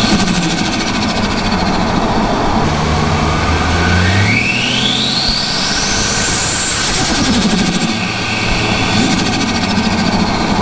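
Turbocharged Ford Barra inline-six being revved: the turbo whine climbs steeply over a few seconds and cuts off suddenly about seven seconds in as the throttle closes, giving way to turbo flutter and the wastegate screamer pipe, while the engine note rises and falls.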